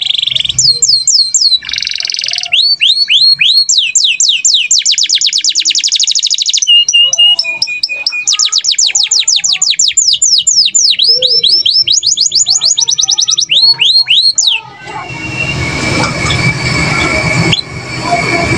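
Cage-bird song: long, fast trills of clear whistled notes, each sliding down in pitch, repeated several times a second with changes of pace and short pauses. About 14.5 seconds in, the song gives way to a noisier background with a few scattered chirps.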